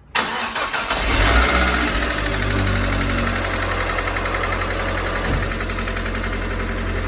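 Abarth 595's 1.4 T-Jet turbocharged four-cylinder engine starting, briefly flaring up in revs, then settling to a steady idle. It carries the knocking that the owner noticed after an oil change.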